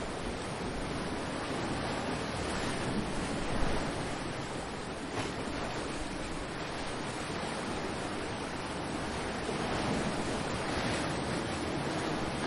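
Ocean surf: waves breaking and washing ashore in a continuous wash, with a brief louder surge a few seconds in and swelling again near the end.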